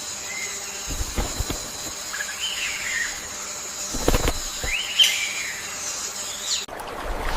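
Birds chirping in a series of short calls that rise and fall in pitch, over a steady high-pitched hiss. A few dull low thuds come about a second in and again around four seconds in. The ambience cuts off abruptly near the end.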